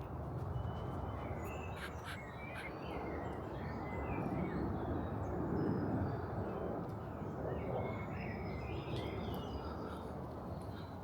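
Birds calling in scattered short chirps over a steady low rumble of background noise, which swells briefly about five seconds in.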